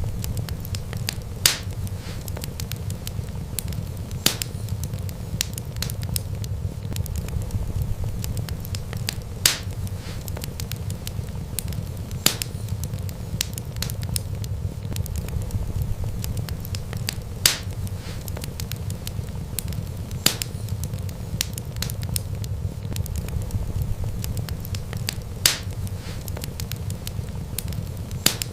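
Wood fire crackling over a steady low rumble of the flames, with many small ticks and a sharp pop every few seconds.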